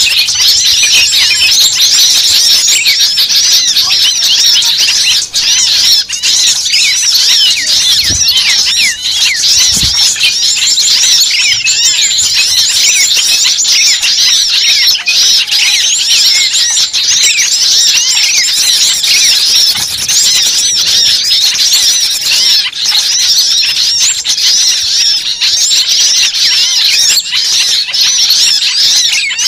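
A dense chorus of many small birds calling at once: continuous, overlapping high chirps and squeaks.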